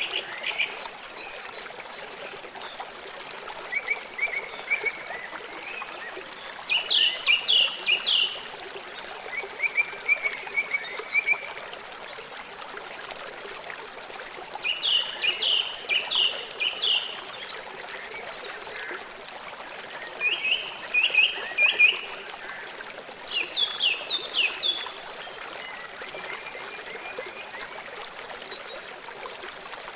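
Running water from a stream or trickle makes a steady rushing hiss. Over it a songbird sings short bursts of quick chirping notes, repeating every few seconds.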